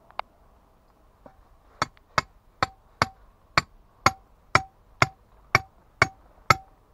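Hand hammer blows breaking stone, eleven in a steady row at about two a second, each with a short ringing tone. A single sharp knock comes just before them.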